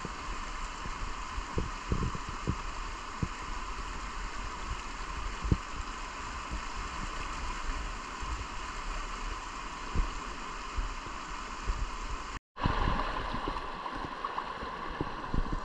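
Rushing white water of a river rapid, a steady hiss, with scattered dull knocks. The sound cuts out completely for a split second about twelve seconds in.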